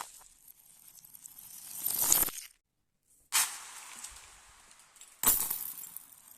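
Glass marbles rolling and clattering along a marble-run track, played backwards, so the rattling swells and then cuts off abruptly, twice. There is a brief silence about two and a half seconds in.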